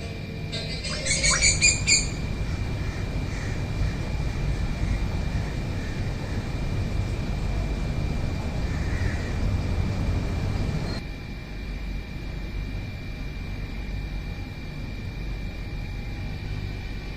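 A bird gives a few loud, harsh squawking calls between about one and two seconds in, over a steady low rumble and a thin, steady high-pitched tone.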